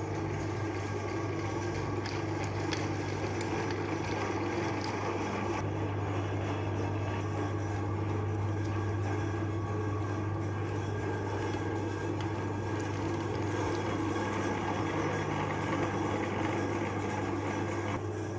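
Electric meat grinder motor running steadily with an even hum.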